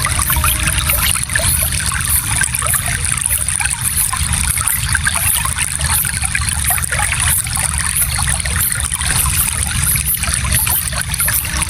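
Gentle stream flowing steadily over stones, a continuous trickling and babbling with many small splashes, over a low rumble of moving water.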